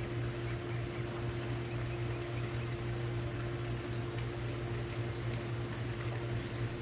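Residential heat pump outdoor unit running: a steady hum from its Copeland scroll compressor under the even rush of the condenser fan.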